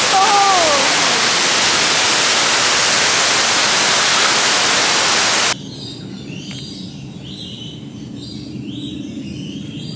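Loud steady rush of a waterfall, with one falling call near the start. It cuts off abruptly about five and a half seconds in, leaving a quieter background with a scatter of short bird chirps.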